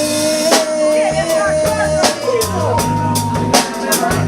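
Live band music: a drum kit keeps the beat under long held melody notes, one for about the first two seconds and a higher one after it.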